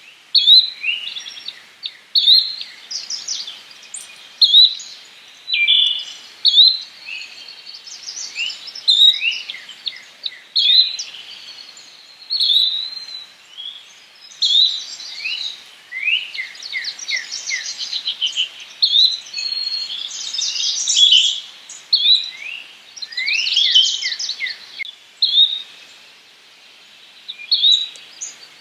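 Yellow-bellied flycatcher calling among other songbirds: short sharp chirps repeat about once a second, with bursts of quick downward-sliding notes about a third and four-fifths of the way through.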